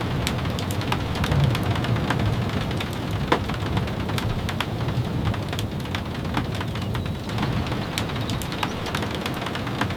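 Steady rain falling, with frequent sharp ticks scattered through it and a low rumble underneath.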